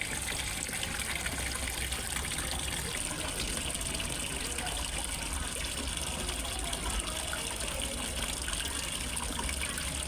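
Water trickling and splashing steadily into a fish pond, as from a small waterfall or inflow.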